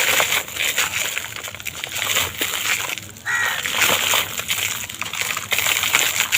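Dry, brittle material being crushed and crumbled by hand, with dense crackling and gritty crunching and a brief dip about halfway.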